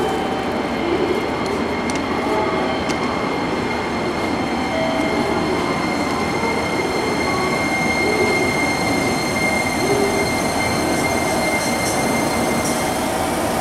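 JR Kyushu 885 series electric train pulling into a platform and slowing to a stop. Its wheels rumble steadily under a high whine that holds throughout, with a few light clicks near the end.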